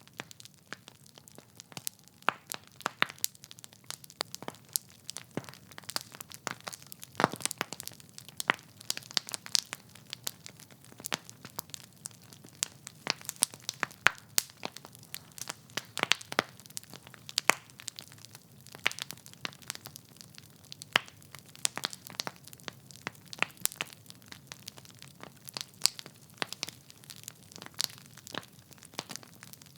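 Wood fire in a fireplace crackling: logs burning with frequent irregular sharp pops and snaps over a faint low rumble of the flames.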